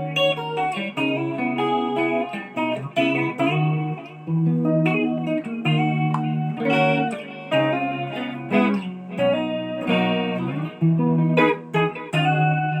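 Guitar being test-played: plucked single notes and short chord shapes over a recurring low bass note, in phrases broken by brief pauses.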